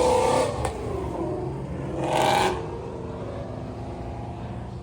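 Chevrolet Camaro ZL1's supercharged V8 revving in two short bursts about two seconds apart, over a steady low engine rumble.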